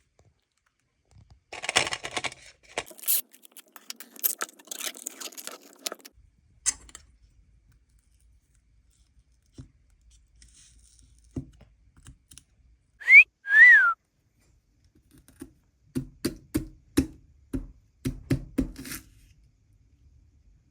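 Two short, loud whistled notes about halfway through, the first rising and the second rising then falling. Around them come scraping, crunching noises early on and a quick run of sharp clicks and knocks near the end.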